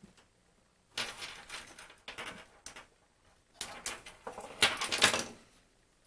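Scraping and clicking of small plastic parts as a connector inside a B&O BeoCom 2 phone is worked loose and disconnected, in three bursts, the last one the loudest.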